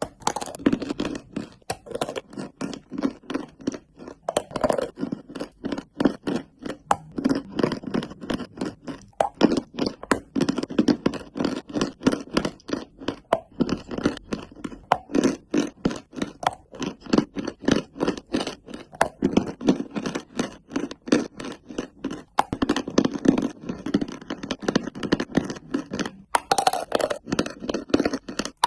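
Edible chalk-clay (mel-glina) being crunched and crumbled: dense quick crackles and snaps, several a second, in clusters.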